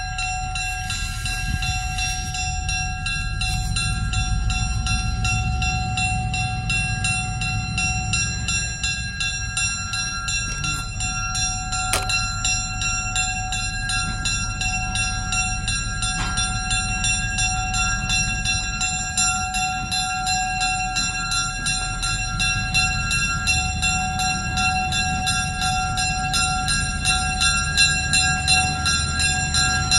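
Railroad grade-crossing bell ringing with rapid, evenly repeated strikes while a train rumbles steadily past.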